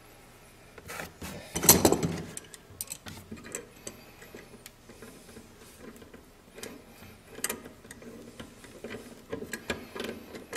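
Metal clicks and knocks of a tool tightening the nuts on a toilet's floor bolts, with a louder knock about two seconds in. The nuts are being brought just snug, not over-tightened, so the porcelain base does not crack.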